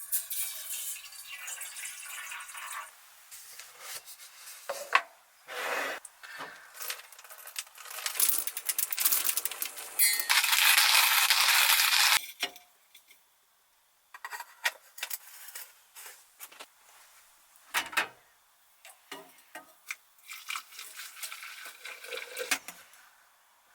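Irregular clinks, knocks and clatter of small hard objects being handled, with a loud steady hiss lasting about two seconds around ten seconds in.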